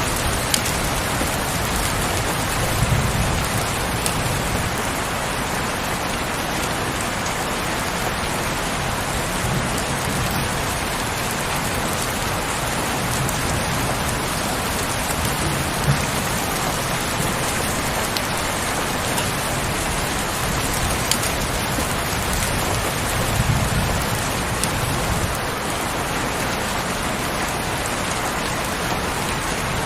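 Steady heavy rain falling, with scattered sharper drop ticks and a low rumble swelling a couple of times.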